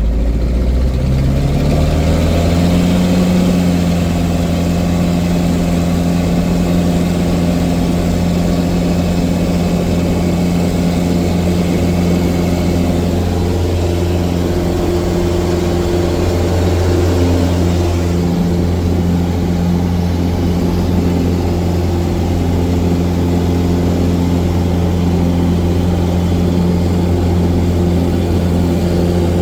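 Cessna 177 Cardinal's four-cylinder Lycoming piston engine and propeller; the engine's pitch rises over the first two to three seconds, then it runs steadily at constant power.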